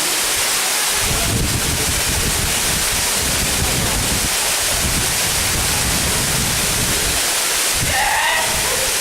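Waterfall rushing: a loud, steady wash of falling water with an uneven low rumble beneath. A brief voice cuts in near the end.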